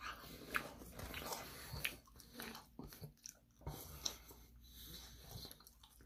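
A person biting and chewing crunchy Korean fried chicken close to the microphone: soft, irregular crunches and mouth sounds.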